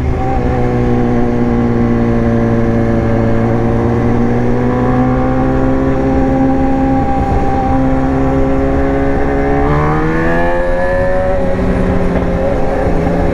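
BMW S1000R's inline-four engine running on the road at moderate revs. Its pitch sags slowly over the first few seconds and holds steady. About ten seconds in it rises as the throttle opens, then changes again about a second and a half later.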